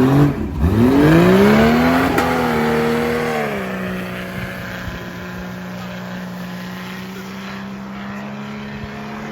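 A mud drag 4x4's engine revving hard: its pitch climbs steeply for about two seconds, then settles at about three and a half seconds into a steady held note that slowly fades.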